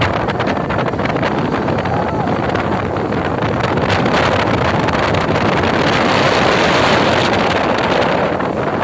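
Strong storm wind buffeting the microphone with a loud, steady rushing noise, likely mixed with rushing water or surf.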